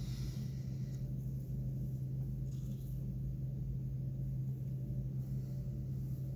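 A steady low electrical hum, with a few faint soft scratches from hackle being wound on a fly at the tying vise.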